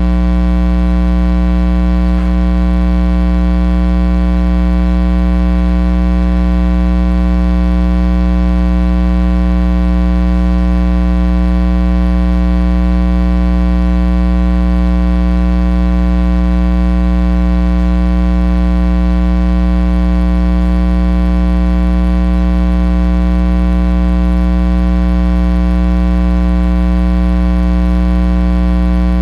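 Loud, steady electrical mains hum with a stack of buzzing overtones, unchanging throughout.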